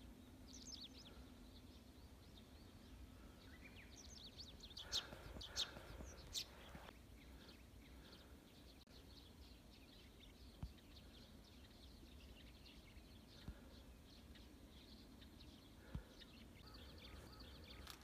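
Near silence with faint, scattered bird calls: a few chirps about a second in, a short cluster of sharp calls around five to six and a half seconds, and a faint call near the end.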